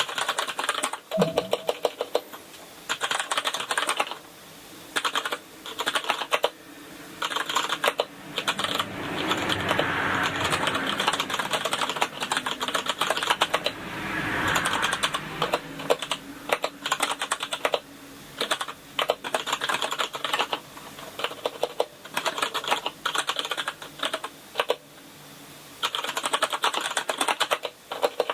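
Typing on a Kinesis Advantage contoured mechanical keyboard with Cherry MX Brown switches: rapid runs of key clicks in bursts, with brief pauses between them.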